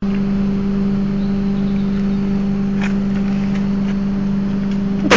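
A steady engine drone holds one constant pitch, with faint clicks about three seconds in and a loud sharp knock right at the end.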